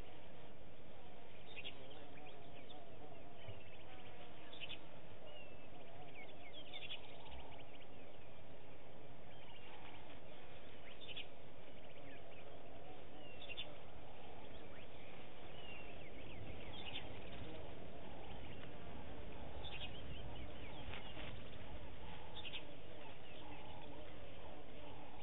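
Bush ambience: birds calling, with short high calls and chirps every second or two over a steady background hiss.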